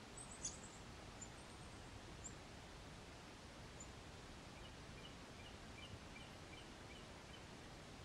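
Faint outdoor ambience with scattered high bird chirps, a sharp tick with a high chirp about half a second in, and, past the middle, a distant bird giving a run of short repeated notes, about three a second, for some two and a half seconds.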